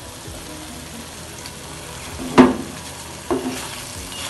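Thick prawn masala sizzling in a nonstick frying pan as it is stirred with a spatula to mix in the salt. A sharp knock of the spatula against the pan about two and a half seconds in, the loudest sound, and a lighter knock a second later.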